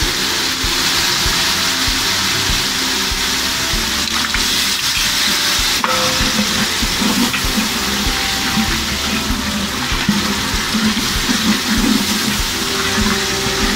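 Masala thinned with yogurt and a little water sizzling steadily in a large cooking pot, stirred with a wooden spatula.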